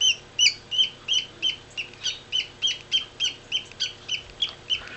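Baby parakeet (budgerigar chick) giving a steady run of short, high chirps, about three a second. This is the begging cry of a chick being hand-fed, a way of saying "more!"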